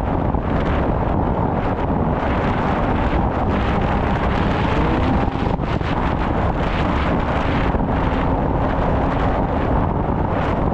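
Snowmobile engine running steadily under way, mostly buried under heavy wind rushing over the microphone.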